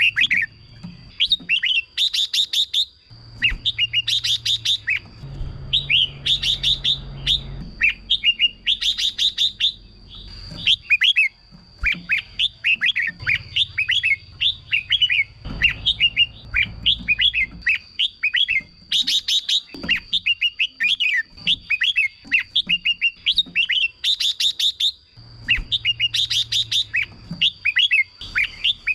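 Red-whiskered bulbuls singing: phrases of quick whistled, up-and-down notes follow one another almost without pause, broken every few seconds by bursts of fast rattling notes. A faint steady high tone runs underneath.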